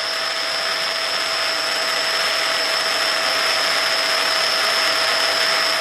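Handheld mattress vacuum cleaner running steadily, its motor giving an even rushing noise with a constant high-pitched whine.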